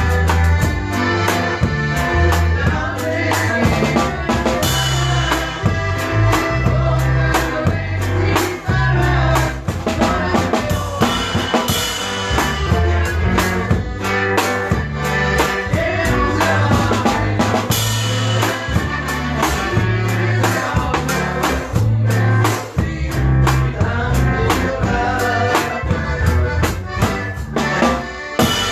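A norteño conjunto playing, led by a drum kit with bass drum and snare over a bass line that steps between notes in a steady rhythm.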